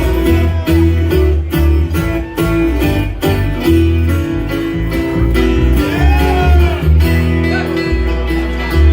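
Live bluegrass music: fast acoustic guitar picking over a changing bass line.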